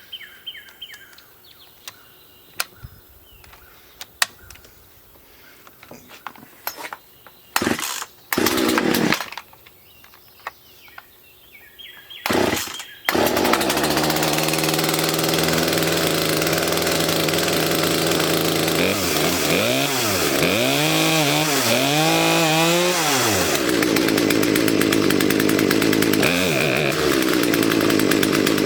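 Poulan P3816 two-stroke chainsaw engine being started: a couple of short bursts, then it catches about halfway through and keeps running. It is revved up and down about four times while its carburetor is being adjusted, then runs steadily.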